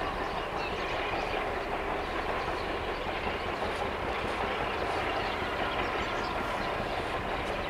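Freight train wagons rolling past at a steady speed, their wheels clattering over the rail joints.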